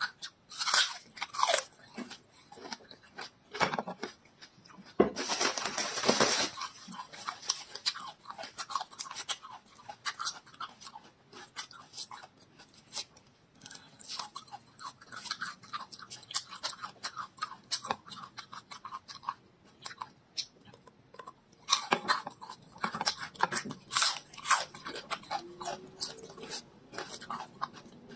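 Crunching and chewing of raw garlic, mixed with the crisp crackle of papery garlic skins being peeled off by hand. A denser crackling stretch comes about five seconds in, and another cluster of sharp crunches comes about twenty-two seconds in.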